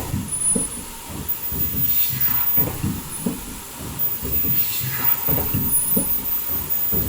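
Automatic foldable mask production line running, with mechanical clatter and a short hiss of air that repeat about every two and a half seconds as the machine cycles.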